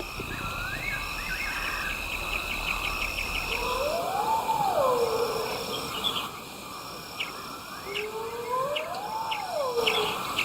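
Natural bush ambience: insects trilling and chirping steadily, with two whistled calls that rise and then fall, each about a second and a half long, about four seconds apart.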